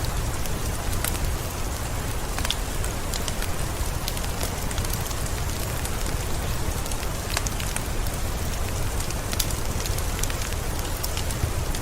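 Wood fire crackling with irregular sharp pops, over the steady hiss of rain falling.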